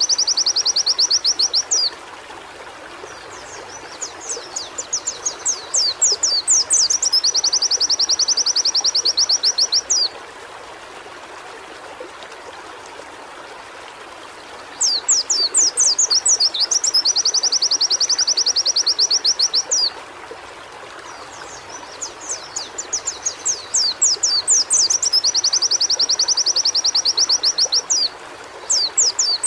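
White-eye (pleci) singing in long phrases. Each phrase starts with a few quick downward-swept notes and runs into a fast, even, high trill lasting several seconds, with short pauses between phrases. A steady hiss runs underneath.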